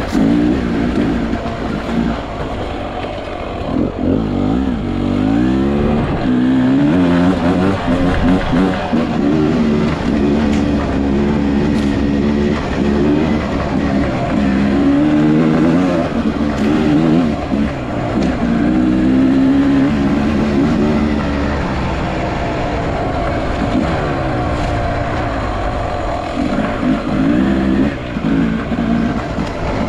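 Enduro motorcycle engine being ridden, its pitch rising and falling again and again as the throttle is opened and closed.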